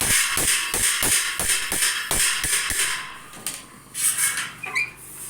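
Hammer striking a steel bandsaw blade in quick, even blows, about three a second with a bright metallic ring, for roughly three seconds. A few scattered knocks and a short high squeak follow.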